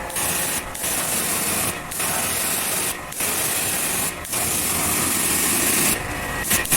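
Pressure-washer water jet spraying, in stretches of about a second broken by brief pauses.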